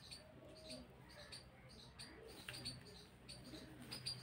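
Faint chirping of small birds in the background: short high chirps, a few each second, at irregular intervals.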